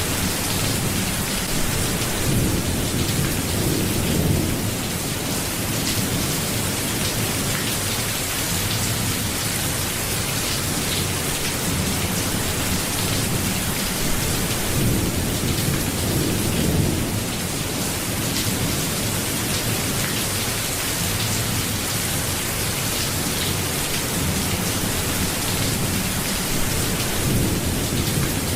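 Steady, dense rainfall, with low rumbles of distant thunder swelling and fading three times.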